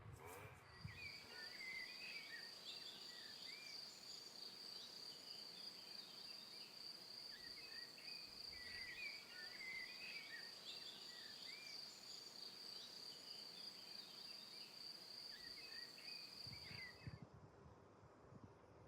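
Faint evening chorus: an insect's unbroken high-pitched trill with scattered short bird chirps over it, both cutting off suddenly near the end.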